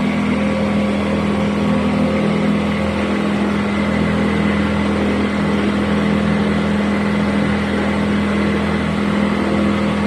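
A boat's engine running steadily while cruising, a constant drone with a wash of noise over it.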